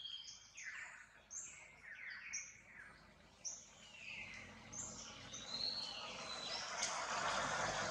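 Birds chirping: a run of short, high calls, each falling in pitch, repeated every half second or so. A rushing noise swells over the last few seconds.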